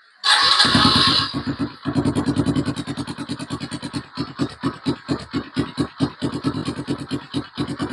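Kawasaki KLX single-cylinder four-stroke engine, fitted with a Nurifumi Roket 4 aftermarket exhaust, being started: a loud cranking burst about a third of a second in, then the engine catches and runs at an uneven, pulsing idle.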